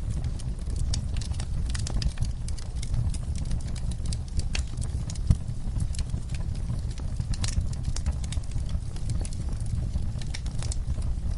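Wood fire crackling in a fireplace: a steady low rumble of the flames with frequent sharp pops and snaps, one louder pop about five seconds in.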